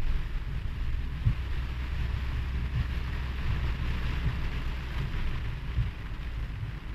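Rain falling with a steady hiss, under a low rumble of wind buffeting the microphone in uneven gusts.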